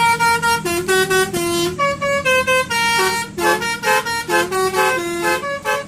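Basuri telolet bus horn, a multi-trumpet air horn, playing a quick tune of short honking notes, about four a second and at times two sounding together, over a steady low hum.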